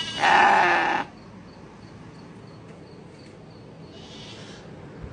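Male goats and sheep bleating, upset at being separated from the females: one loud, long bleat that ends about a second in, then a fainter bleat about four seconds in.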